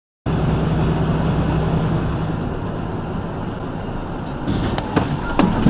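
Steady road and engine noise of a vehicle driving, starting abruptly just after the start, with a few sharp clicks or knocks near the end.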